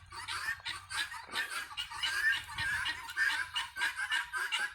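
A flock of guinea fowl calling together: an unbroken string of short calls, about four or five a second.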